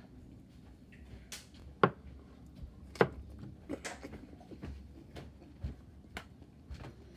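A scattered series of sharp clicks and light knocks, two of them much louder, about two and three seconds in.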